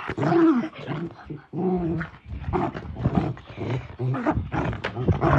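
Dog growling in a string of short, uneven growls while worrying a stuffed toy.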